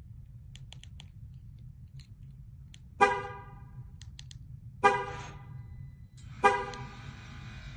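Three short horn-like chirps from the Ram 1500 pickup, about a second and a half apart. Each starts sharply and fades out, with light clicks in between.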